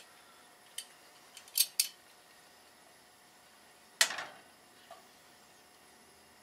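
Metal kitchen tongs clicking a few times, then scraping across a nonstick frying pan about four seconds in as they spread garlic butter.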